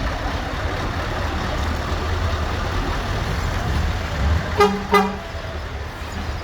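Steady low rumble of vehicle engines, broken by two short horn toots about half a second apart, roughly three-quarters of the way through.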